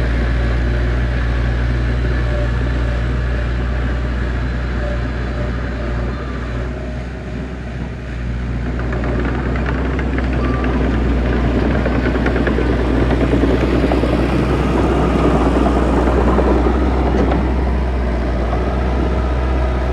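Diesel engine of heavy earthmoving machinery running steadily, easing off briefly about seven seconds in, then working louder and rougher under load.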